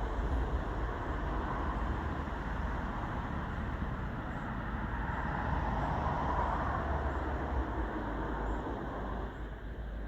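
Steady rumble of a passing train, easing off slightly near the end.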